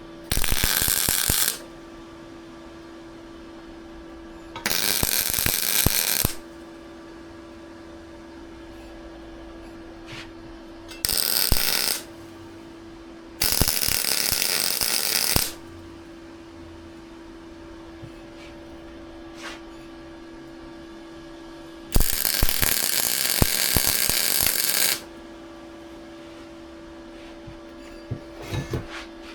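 Welding arc crackling in five short bursts of one to three seconds each, the welds being laid in stops and starts, with a steady hum between bursts.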